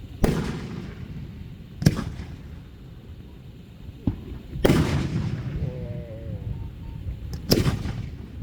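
Aerial fireworks shells bursting: four loud booms, each trailing off in a rumbling echo, with a couple of smaller cracks between them.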